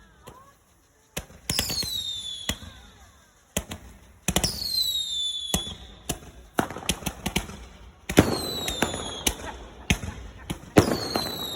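Fireworks going off in a rapid barrage: sharp bangs, several followed by a whistle that falls in pitch over about a second, with rapid crackling between them.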